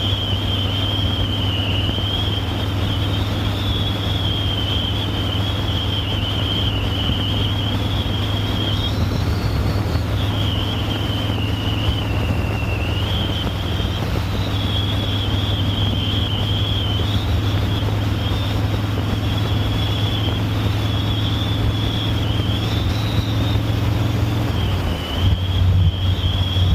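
Harley-Davidson Softail Standard's Milwaukee-Eight V-twin running steadily at road speed, heard with heavy wind rush on the glasses' microphone with the visor up and a high whistle that wavers in pitch. Near the end the engine note dips briefly, then comes back stronger.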